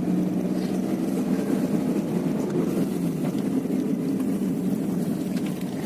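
A moving road vehicle's engine running steadily, with road noise.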